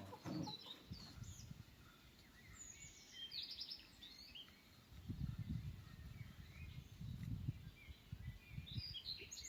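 Small birds chirping and calling in short, scattered high notes, over uneven low rumbling noise.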